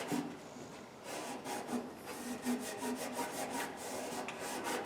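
Hand scrubbing on an old steel Craftsman toolbox: a quick, irregular series of rough rubbing and scraping strokes as grime is worked off the metal.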